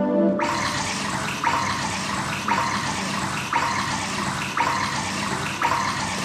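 A loud rushing, hissing noise like running water that starts suddenly and swells in a regular beat about once a second.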